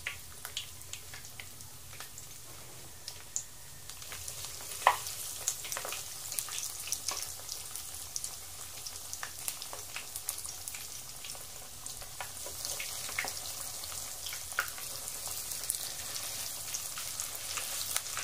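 Breaded chicken cordon bleu rolls sizzling in hot oil in a pan: a steady hiss with scattered pops and crackles, and one sharp tap about five seconds in. The sizzle gets louder about four seconds in and again about twelve seconds in as more rolls go into the oil.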